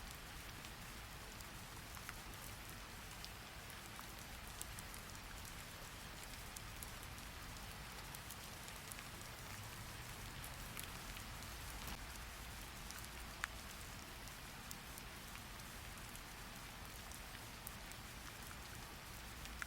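Steady rain falling, a soft even hiss with scattered small drop-like clicks.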